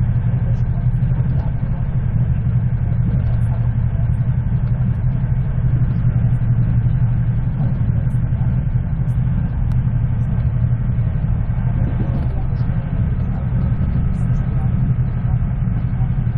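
Steady low rumble of an express train's passenger coach running at about 120 km/h, heard from inside the carriage: wheels rolling on the rails and the car body's running noise.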